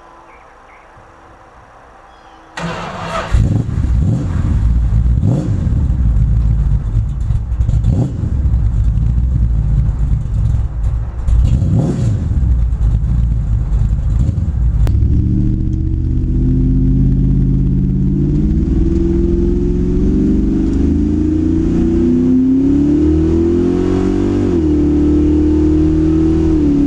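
A motor vehicle's engine comes in abruptly about two and a half seconds in and revs up in several surges, as when pulling away and accelerating. It then runs steadily at a slowly wavering pitch and drops off near the end.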